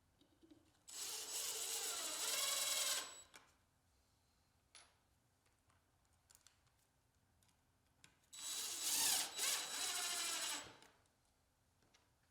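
Power drill running in two bursts of about two seconds each, one near the start and one near the end, its motor pitch bending up and down as it works.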